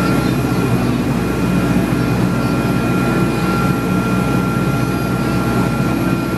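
Boat engine running steadily at cruising speed, a constant low drone with a faint thin whine above it, heard from on board.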